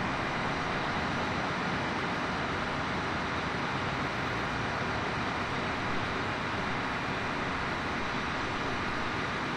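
Steady, even rumble of a BNSF train approaching from a distance, with no horn or separate knocks.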